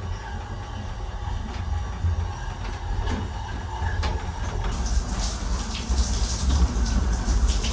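Amtrak Coast Starlight sleeper car running along the track, a steady low rumble with faint rail clicks. About five seconds in, a steady hiss joins it.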